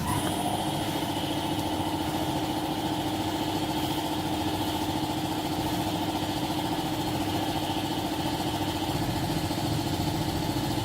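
A small electric motor running at a steady speed with a constant whine over a rushing noise, switched on abruptly at the start.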